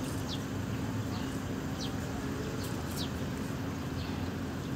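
Open-air ambience: a steady low hum and background noise, over which small birds give several short, high, falling chirps at irregular intervals.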